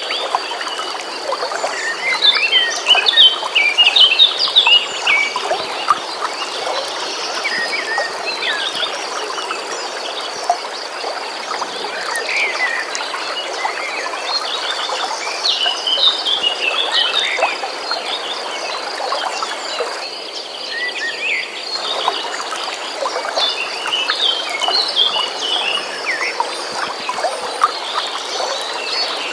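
Wild songbirds chirping and calling over a continuous rush of a flowing stream, with a steady high-pitched trill running underneath. The water noise thins briefly about two-thirds of the way through.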